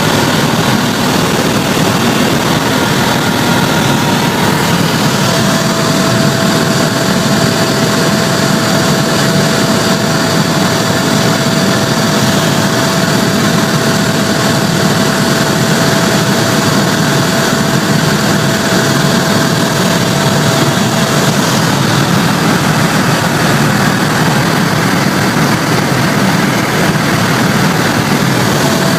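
Helicopter running steadily: a loud, even noise with no letup, and a thin steady whine that fades in after a few seconds and drops away about three-quarters of the way through.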